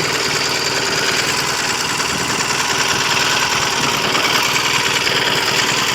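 Triumph TR6's 650 cc parallel-twin engine idling steadily at a standstill, hot after a ride, on its freshly rebuilt top end with new pistons and rings.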